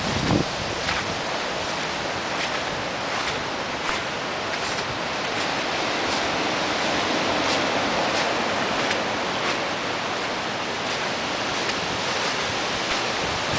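Steady rush of floodwater, with faint regular splashes at walking pace as someone wades through it.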